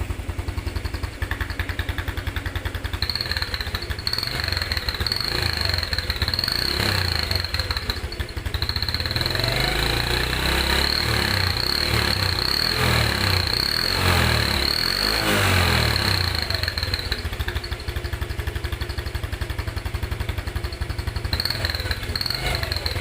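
Yamaha Vega motorcycle on its stock exhaust, idling and then revved several times in the middle. A turbo whistle held at the tailpipe gives a high, steady whistle for most of the revving; it drops out, then sounds again briefly near the end.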